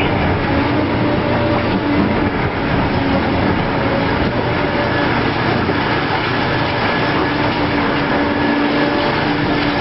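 Heavy machinery running steadily: a loud, dense engine-and-mechanical din with a faint steady hum underneath.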